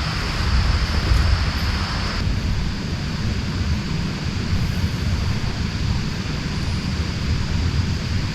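Steady heavy rain hissing, with a deep low rumble underneath. The higher part of the hiss drops away suddenly about two seconds in.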